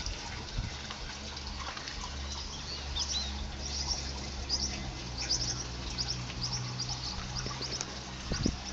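Small birds chirping: quick runs of short, high chirps starting about three seconds in, over a low steady hum.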